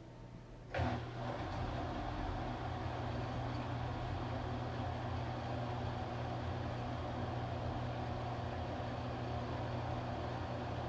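Washing machine that starts a new phase with a sudden click under a second in, then runs steadily with a low hum and a broad mechanical noise.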